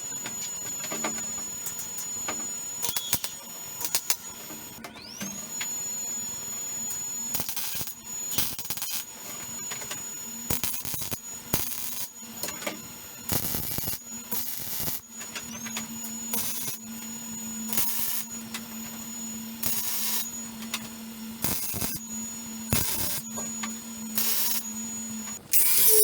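Welder tacking steel frame pieces: about a dozen short bursts of arc crackle, each under a second, at uneven intervals, over a steady high electronic whine and a low hum from the machine.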